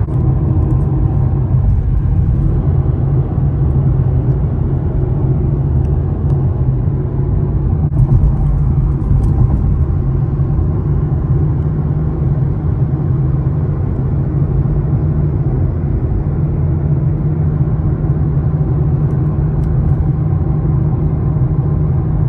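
Infiniti Q50 Red Sport's twin-turbo V6 and exhaust running steadily while the car drives, a loud, even, low rumble with road noise.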